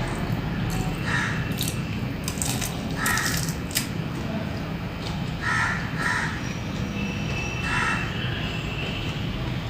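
Five short, harsh bird calls a second or two apart, with a few sharp crunches of fried snacks being bitten over a steady low hum.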